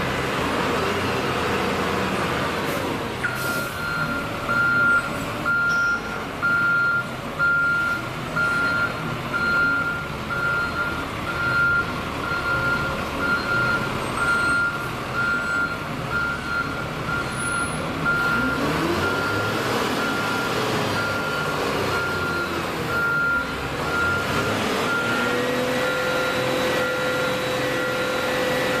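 A heavy machine's reversing alarm beeping at a steady, repeated rate over a diesel engine running. The beeping starts about three seconds in, and a second steady tone joins near the end.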